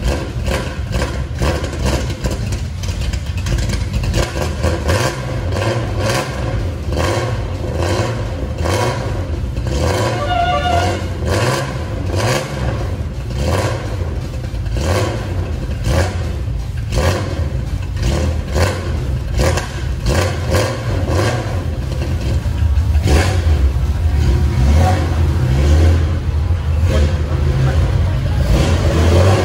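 Nissan Skyline C10 'Hakosuka' engine running loudly in an uneven idle with a deep rumble and frequent sharp pops, revved now and then; it gets louder about three-quarters of the way through.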